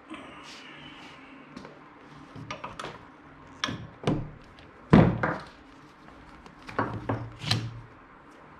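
Scattered knocks and clunks of a 14mm socket wrench and seat parts being handled while the seat belt anchor bolt is undone, with one heavier thump about five seconds in.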